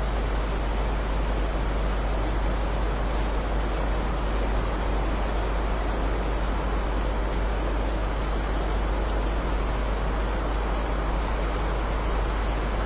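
Rain falling as a steady, even hiss, with no single drops standing out and a deep rumble underneath.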